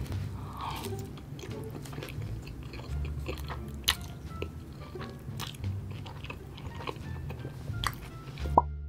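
Close-miked eating: biting and chewing mouthfuls of saucy cheese-covered fries, with many short wet mouth clicks, over background music with a steady low bass.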